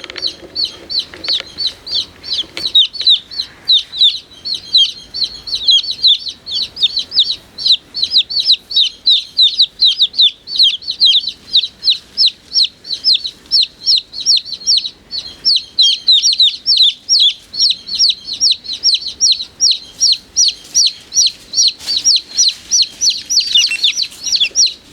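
Chicks peeping continuously: a steady stream of short, high peeps, several a second, from a number of chicks at once.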